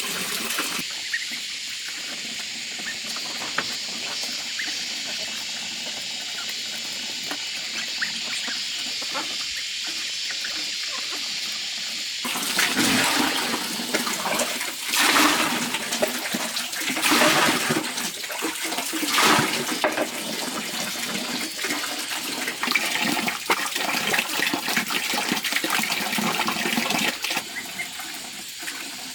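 Water running and splashing: a steady hiss at first, then heavier, uneven splashing with louder surges from about twelve seconds in, easing off near the end.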